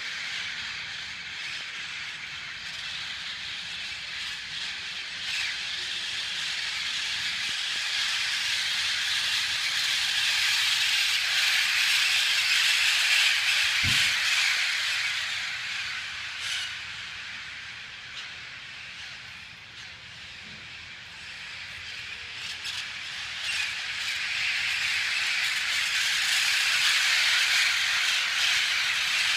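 A large flock of birds calling all at once, a dense chattering din that swells louder, eases off and builds again near the end. A single brief thump about a third of the way through.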